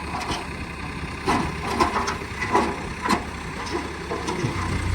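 JCB 3DX backhoe loader's diesel engine running, with several sharp knocks and clatter. The engine gets louder near the end.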